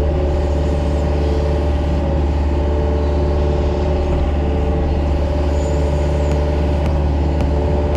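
Mini excavator's diesel engine running steadily at a constant speed, with a few faint clicks near the end.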